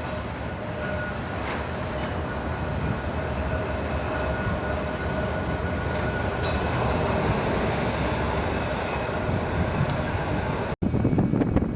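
Electric tram running along street track: a steady rumbling run with a faint steady whine, slowly growing louder. It cuts off abruptly near the end into a different, louder rumble.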